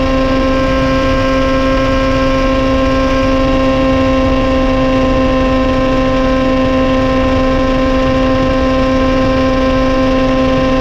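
Suzuki GSX-R1000 inline-four through a Yoshimura exhaust with the dB killer removed, running loud at steady high revs and holding one pitch, as at a constant cruise.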